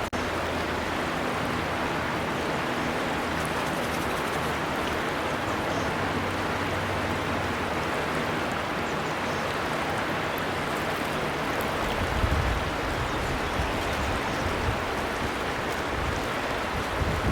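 River water flowing in a steady, even rush, with a deeper low rumble joining about two-thirds of the way in.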